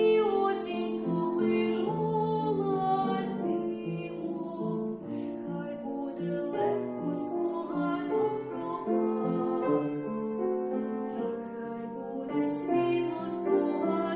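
A female voice singing a slow, gentle song over a piano-like keyboard accompaniment.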